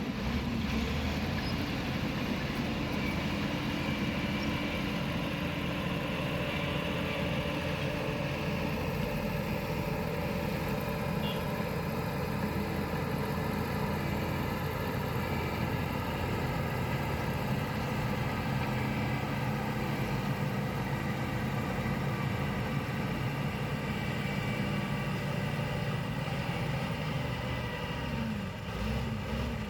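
Diesel engine of heavy construction equipment running steadily, with a brief change in the engine note near the end.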